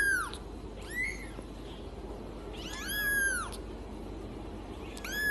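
Domestic cat meowing repeatedly: the tail of one meow at the start, a short meow about a second in, a longer one around three seconds, and another starting near the end, each rising then falling in pitch.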